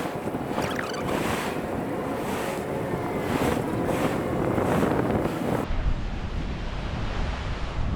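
Wind buffeting the microphone over the rush of sea water and waves. About six seconds in the sound changes abruptly to a duller, low rumble of wind.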